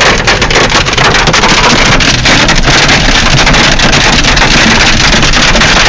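Hailstones pelting the car's body and glass in a rapid, dense clatter of hits, over loud wind and road noise in the moving car.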